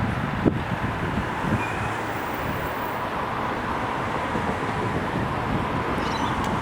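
Level crossing warning bells ringing as a steady electronic tone during an activation, over a low rumble of passing vehicles and wind on the microphone.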